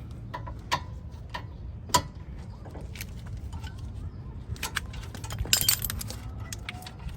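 Metal tools and brake parts clinking and knocking against each other while the brake caliper hardware is taken apart: scattered single clicks, with a quicker run of clinks about five seconds in.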